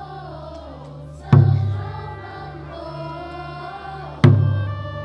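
A group of voices singing a slow song, with a deep drum struck twice, about three seconds apart.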